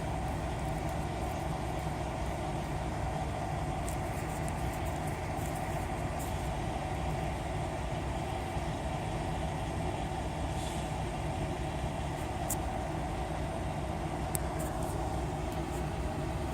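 Steady low rumble of an idling diesel truck engine, with a few faint ticks.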